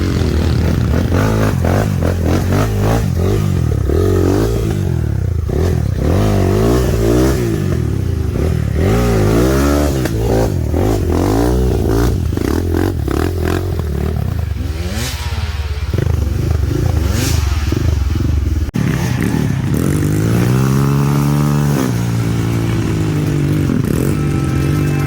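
Dirt bike engine revving up and down again and again under throttle on a trail ride, with rattling from the bike.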